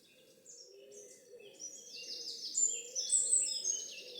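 Dawn chorus of several songbirds singing in woodland: quick high notes and rapid trills at different pitches overlap, swelling louder about halfway through.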